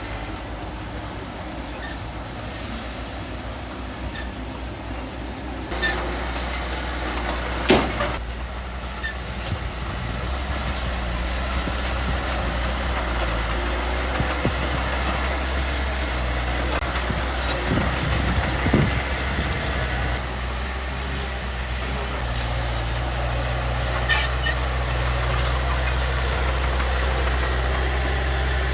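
Heavy diesel earthmoving machine running steadily. It gets louder about six seconds in, with a sharp knock about eight seconds in and a few more knocks and clanks near the middle.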